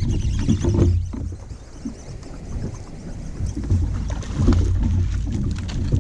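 Wind buffeting the microphone on a fishing boat, an uneven low rumble with scattered knocks; it eases for a couple of seconds about a second in, then picks up again.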